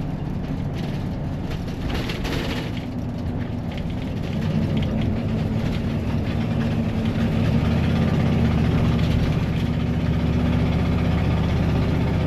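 Ford 460 V8 gas engine of a 1996 Coachmen RV running, getting louder about four seconds in and changing note a few seconds later. The engine has an exhaust manifold leak.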